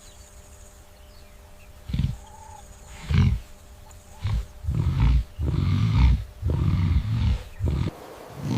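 A big cat giving a series of deep roaring grunts, seven or eight low calls in a row starting about two seconds in.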